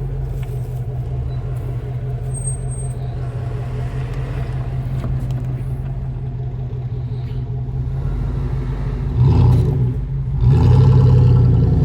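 Nissan Patrol Y61 off-road SUV engine running steadily at low revs. About nine seconds in it revs up briefly, eases off, then revs up again and holds there as the truck pulls itself out of a hollow under load.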